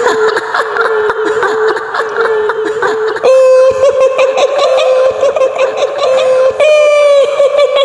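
High-pitched woman's giggling laugh of the kind made for the kuntilanak ghost, held in quick repeated pulses, its pitch stepping up twice, about three seconds in and again near the end.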